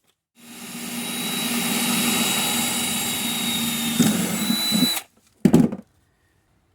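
Electric drill running steadily for about four and a half seconds with a high whine, drilling a new rivet hole in the door's window channel, then stopping. A short knock follows about half a second later.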